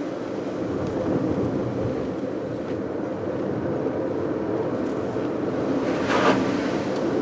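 A car driving on a rain-soaked road: steady engine and wet tyre noise, with one short splash about six seconds in as the tyres run through water.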